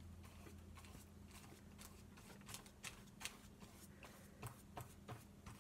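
Near silence with a low steady hum, broken by a scattering of faint, short taps and rustles from paintbrush and paper being handled while painting, most of them in the second half.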